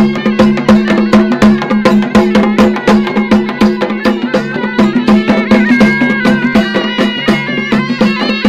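Traditional folk music with fast, even drumming over a steady low drone, and a high melody line that wavers and glides.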